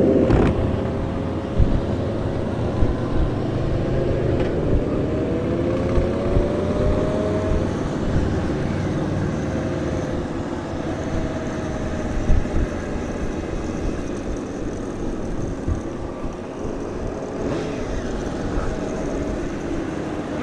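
Motorcycle engine running on the move, its pitch rising for a few seconds a few seconds in as it speeds up, over a steady rumble with intermittent low thumps from wind on the microphone.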